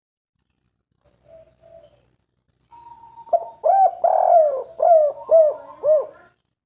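Spotted dove (derkuku) cooing. A faint coo comes about a second in, then from about three seconds in a loud run of six or so quick, arched coo notes ends a little after six seconds: the dove's 'kuk 3' song.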